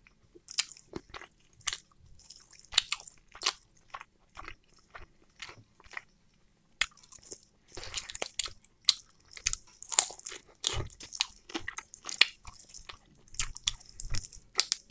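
Close-miked chewing and biting of roast chicken eaten off the drumstick: a run of short, irregular mouth clicks, busier and louder in the middle.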